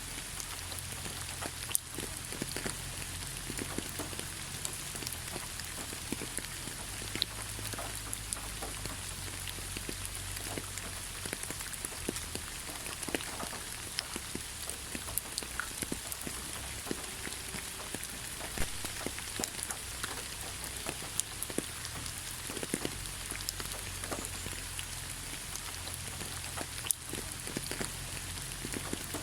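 Gentle rain falling on leaves, a steady hiss broken by many scattered drop ticks, over a faint low rumble.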